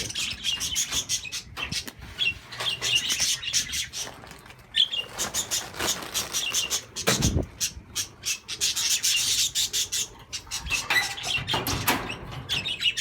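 A flock of budgerigars chattering and chirping continuously, with wing flutters. A dull thump about seven seconds in.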